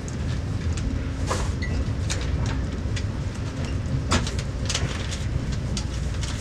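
VIA Rail passenger train rolling slowly, heard from inside the coach: a steady low rumble with scattered clicks and knocks, two louder ones about a second in and about four seconds in.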